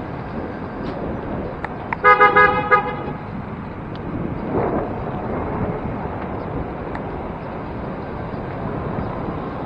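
A vehicle horn honks in several quick toots about two seconds in, over steady road traffic noise; a vehicle passes a couple of seconds later.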